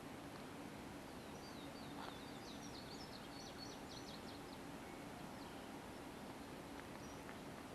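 A songbird singing one phrase of quickly repeated rising notes about a second in, over faint steady hiss and a low hum.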